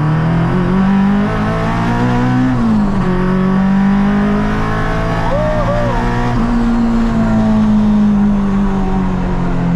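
Honda Civic EG6's B20B four-cylinder engine with high cams revving hard under acceleration. The pitch climbs, drops sharply about two and a half seconds in at a gear change, holds high, then falls slowly near the end as the throttle eases.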